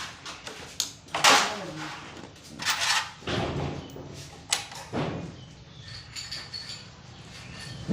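A few knocks and scrapes of metal parts and tools being handled while a motorcycle disc brake is put back together. The two loudest come about a second and almost three seconds in.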